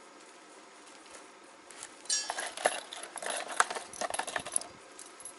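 Gear being handled: a quick run of clicks, rattles and light clinks for about three seconds, starting about two seconds in.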